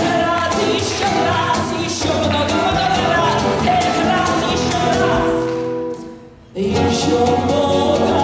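A Russian romance, sung over instrumental accompaniment, fades out about six seconds in. After a brief dip, the next song's accompaniment starts abruptly.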